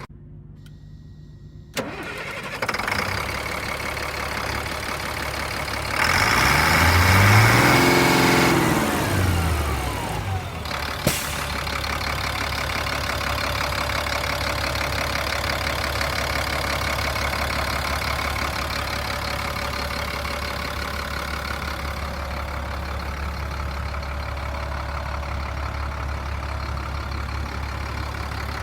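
A 1997 Freightliner truck's diesel engine comes on after a click about two seconds in. It is revved once, its pitch climbing and falling back, then settles into a steady idle.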